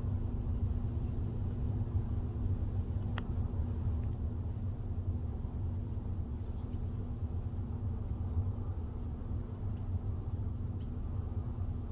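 Small birds giving short, high chirps here and there over a steady low rumble.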